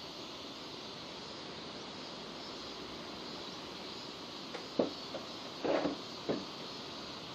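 Steady rain falling, an even hiss of drops. A few brief, sharper taps stand out near the end, the loudest about five seconds in.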